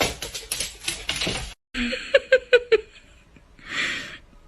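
A quick burst of laughter, about six short rapid 'ha' sounds, about two seconds in, just after the sound cuts out abruptly. A short rushing noise follows near the end.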